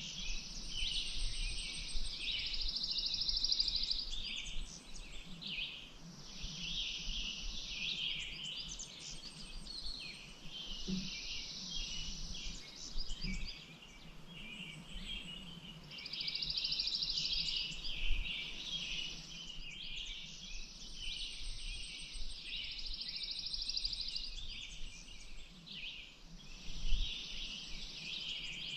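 Several songbirds singing in a dense chorus, one trill coming back every few seconds over a steady mix of chirps.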